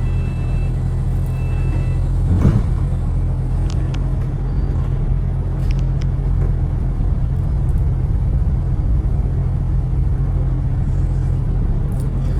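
Steady low rumble of city street traffic, with a brief louder thump about two and a half seconds in.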